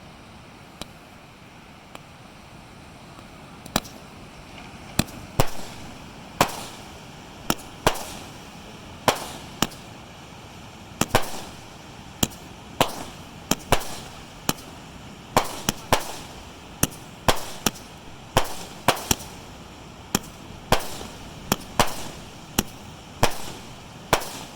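Fireworks going off in a long, uneven string of sharp bangs, about one or two a second, starting a few seconds in, some with a short rumbling tail, over a steady background rush.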